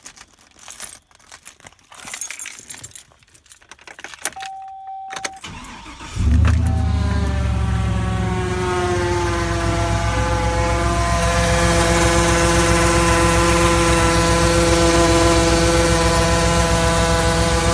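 Keys jingling and a short chime, then about six seconds in the 2003 Chevy Silverado 2500HD's engine starts and settles into a steady idle with a whine that rises slightly in pitch before holding. The owner puts the noise down to rotted-out engine mounts letting the engine shift, so that its vibration is carried through the K&N intake where it touches the fan shroud.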